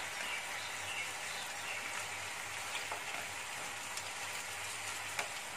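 Chicken wings sizzling steadily in a frying pan as their fish-sauce glaze reduces and thickens, with a few light clicks of wooden chopsticks against the pan.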